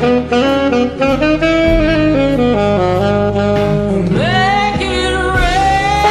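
Saxophone solo over a blues backing band: a run of short stepped notes, then a long note bent upward and held about four seconds in.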